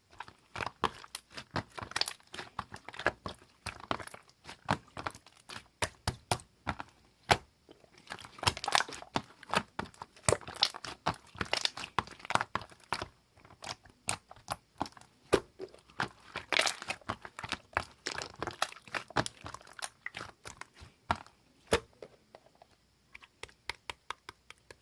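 Clear slime being squished, stretched and poked by hand, giving dense runs of sharp wet clicks and pops that thin out over the last couple of seconds.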